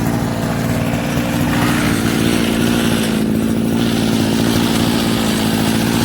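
Small petrol engine of a homemade sprayer running steadily at a constant speed, driving its pump to draw water.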